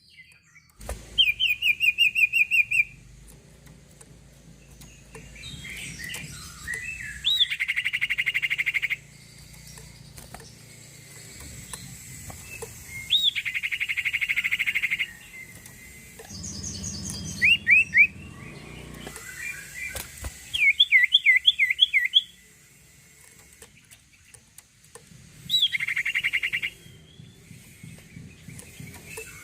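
A sirtu songbird singing in separate bursts every few seconds, each burst a fast, rattling trill or a quick run of up-sweeping whistled notes.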